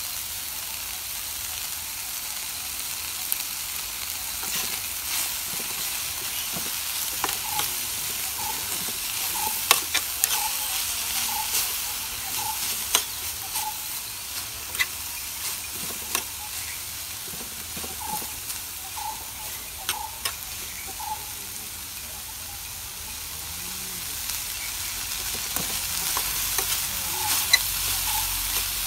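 Chicken strips, bell peppers and onions sizzling in a frying pan as they are stirred and tossed, the utensil clicking and scraping against the pan now and then.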